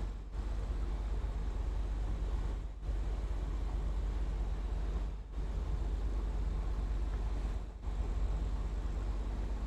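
Motor cruiser's engine running steadily under way, a continuous low drone. The level dips briefly about every two and a half seconds.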